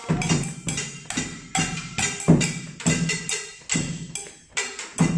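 Several people improvising together on household objects used as Japanese percussion: sticks striking pots and buckets as taiko drums, with a loose, irregular run of several strikes a second.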